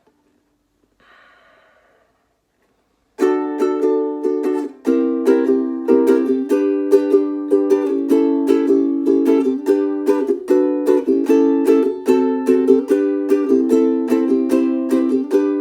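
aNueNue Moon Bird ukulele strummed in a steady rhythm, chords starting about three seconds in after a near-silent pause.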